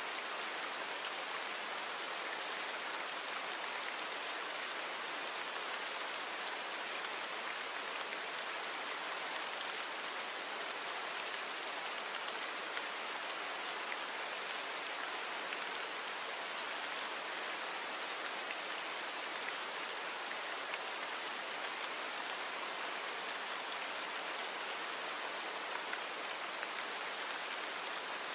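Steady rain falling, a continuous even hiss with faint scattered drop ticks, recorded from real rain and noise-reduced.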